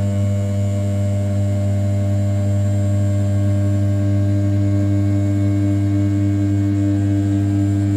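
A small CNC mill's 500 W brushless spindle running at 6000 rpm while an end mill roughs the outer contour of an A7075 aluminium block: a steady, unchanging machine hum with several constant tones.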